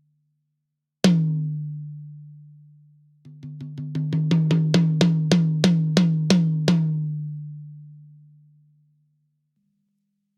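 Close-miked tom on a Yamaha Recording Custom kit, played dry with no other instruments: one single hit that rings out for about two seconds, then a run of about fifteen strokes at roughly four a second that builds from soft to loud and rings out afterwards.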